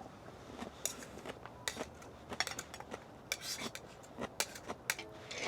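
Eating utensils clinking and tapping against a metal griddle or dish as food is picked up, a string of light, irregular clicks.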